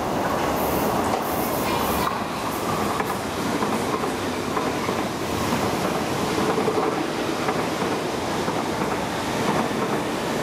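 MTR East Rail Line electric multiple-unit train passing close by at speed, with a steady noise of wheels running on the rails.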